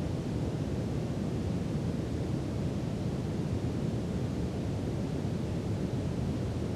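Steady brown noise: an even, deep rush with its weight in the low end and little treble.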